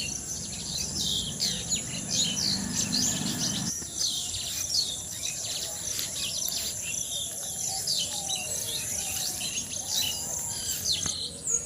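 Many birds chirping and calling in a busy chorus of short, falling notes, over a steady high-pitched insect drone. A low hum underneath cuts off abruptly about four seconds in.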